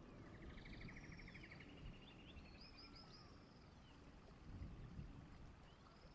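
Birds singing faintly over a low steady rumble: a rapid trill near the start, then runs of short down-slurred notes.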